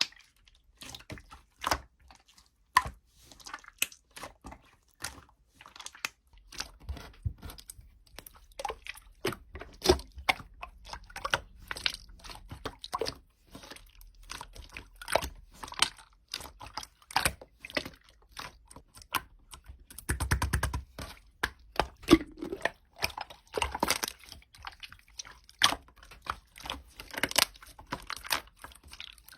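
Slime being pressed, poked and squeezed by hand, giving a dense, irregular run of crackling clicks and squishy pops, with a thicker burst of rapid crackles about two-thirds of the way through.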